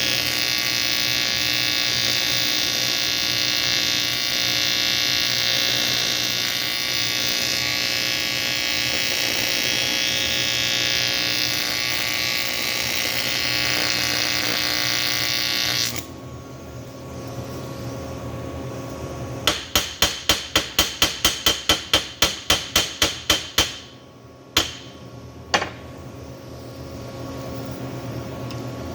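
Welding arc on an aluminium cylinder head running steadily with a buzzing hiss, cutting off suddenly about two-thirds of the way through. After a short pause comes a fast, even run of about twenty sharp strikes, a few a second, then two single strikes.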